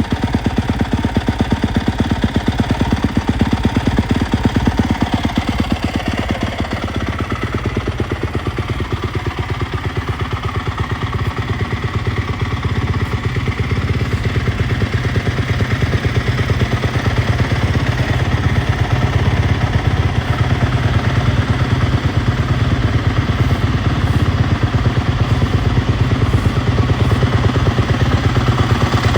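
Yamaha YZ250F motocross bike's single-cylinder four-stroke engine idling steadily, dipping slightly in level partway through and picking up a little near the end.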